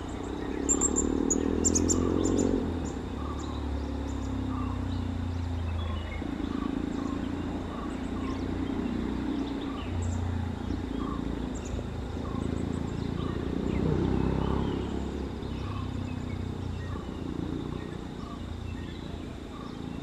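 Outdoor ambience: a bird repeating a short call note about once a second, with other faint bird calls, over a steady low rumble. A few sharp clicks sound in the first couple of seconds.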